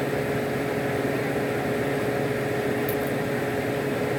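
Car engine idling with a steady, unbroken hum.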